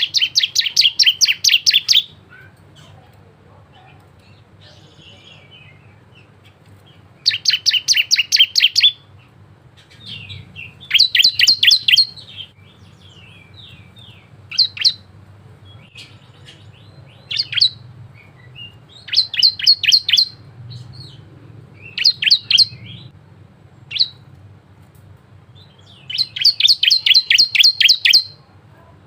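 Ciblek (prinia) singing: about eight bursts of fast, rapidly repeated high chirps, each lasting one to two seconds, with short single notes and pauses of a few seconds between them. A faint low hum sits underneath.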